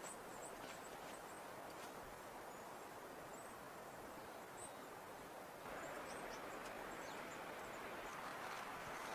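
Faint steady hiss of wind in a snowstorm, which grows a little louder about six seconds in.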